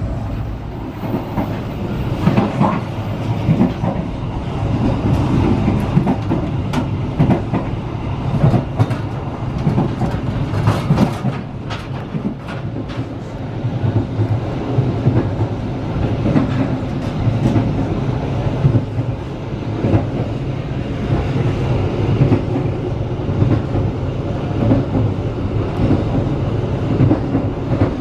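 Passenger train running along the track: a steady low rumble of the running gear with irregular clicks of the wheels over the rails, a cluster of them about ten seconds in.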